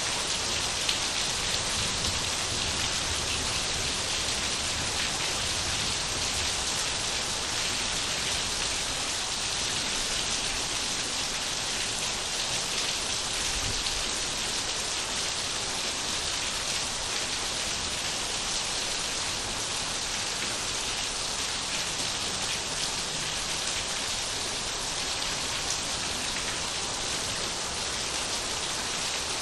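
Steady rain falling, with the patter of drops on surfaces, unchanging throughout.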